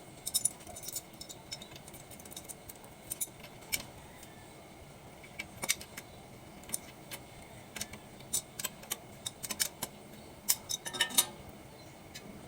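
Irregular metallic clicks and clinks from tools and fittings being handled while old pigtail hoses are taken off an LPG gas-line manifold, in scattered clusters with the busiest run about ten seconds in.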